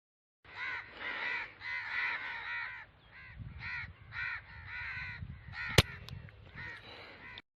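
Crows cawing repeatedly, with one sharp crack of an air rifle shot about six seconds in, the loudest sound.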